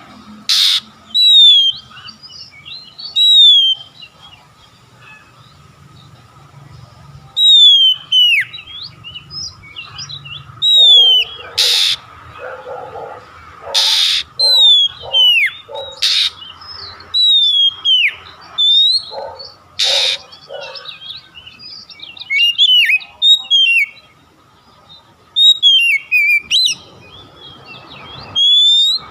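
Oriental magpie-robin (kacer) song played as a lure: phrases of clear, high whistles that swoop downward, broken several times by loud, harsh rasping notes, with short pauses between phrases.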